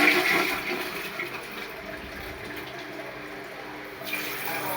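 Toilet flushing: the rush of water tails off in the first second into a quieter steady hiss as the cistern refills. About four seconds in, a louder stream of running water starts.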